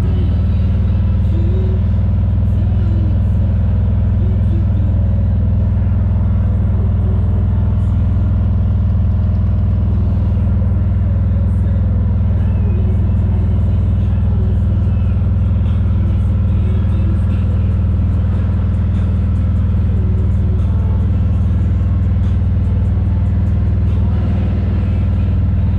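Harley-Davidson Street Glide's V-twin and the road heard while riding: a steady, deep drone that holds even throughout, with music faintly over it.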